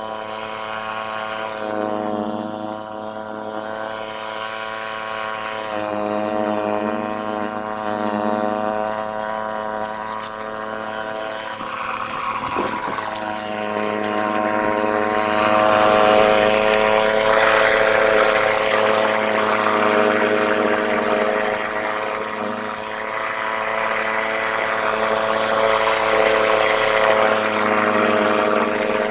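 Ariens snowblower engine running steadily at working speed, with a rushing noise that grows louder about halfway through.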